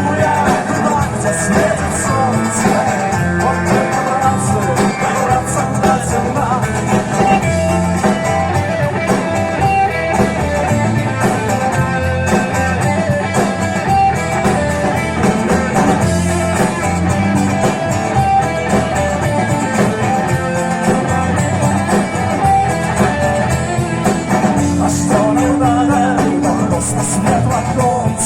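A live vocal-instrumental band playing a rock song, with guitar prominent over bass and drums.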